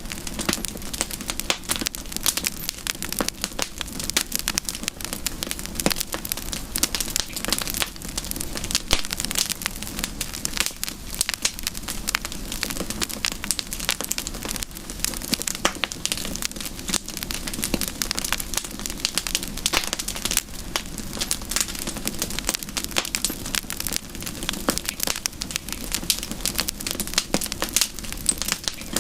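Campfire burning with dense, continuous crackling and popping of the wood over a steady low hiss.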